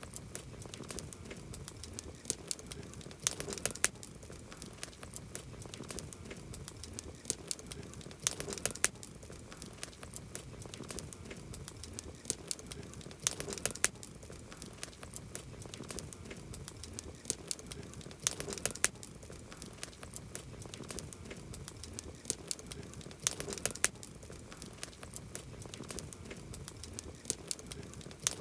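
Campfire crackling: burning wood snapping in sharp, irregular clicks over a soft steady hiss, with denser flurries of crackles about every five seconds.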